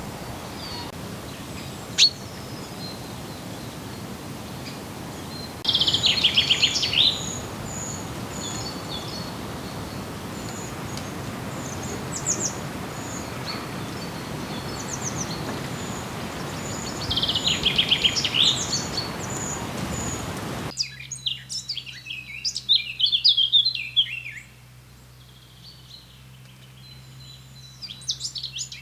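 Small songbirds singing: a loud, falling song phrase comes twice, about eleven seconds apart, among short repeated high notes over a steady hiss. About 21 s in the hiss gives way to a low steady hum and a burst of busy chirping.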